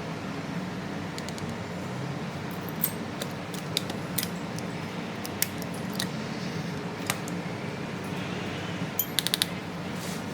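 Light, sharp clicks and taps of small tools and phone parts being handled on a repair bench, scattered singly and then a quick run of four near the end, over a steady low hum.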